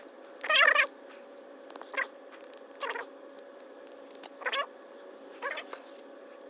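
An animal giving about five short, wavering cries a second or so apart, the first the loudest, over a faint steady hum.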